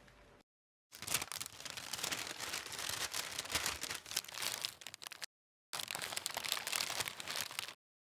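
Crinkling and rustling, like plastic or paper packaging being handled, in two stretches of about four seconds and two seconds separated by abrupt cuts to dead silence.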